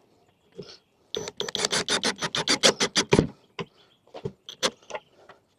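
A rapid run of sharp mechanical clicks, about ten a second for some two seconds, then a few scattered clicks and knocks.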